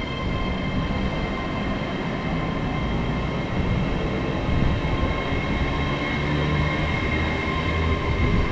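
LNER Azuma (Hitachi) multiple unit passing close by a station platform: a steady rolling rumble of wheels on rail with several held high tones over it.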